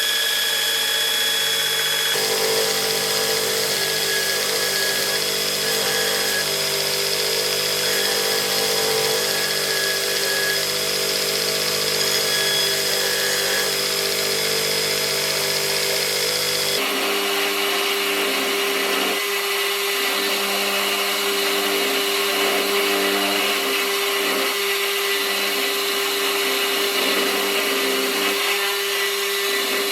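An electric power tool running steadily under load. Its sound changes abruptly about 17 seconds in, the deep part dropping away while a higher hum remains.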